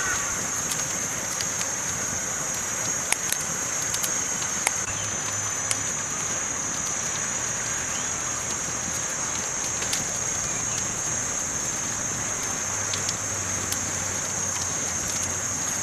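Campfire burning with a steady high-pitched hiss and scattered sharp crackling pops, a handful over the stretch.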